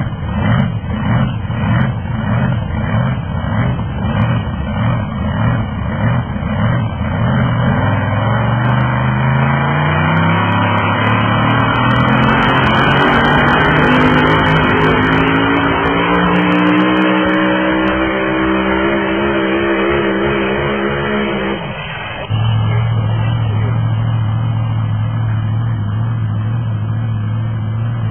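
International 5488 tractor's diesel engine working hard under load in a tractor pull. It pulses rhythmically at first, then the revs climb steadily for several seconds and hold high. About three quarters of the way through, the revs drop suddenly to a steady lower run.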